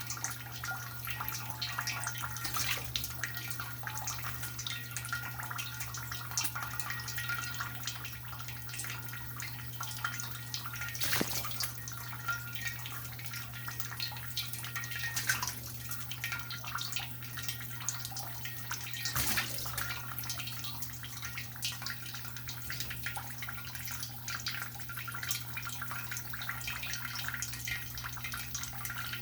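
Shower water running and spattering, with scattered drips and a steady low hum underneath.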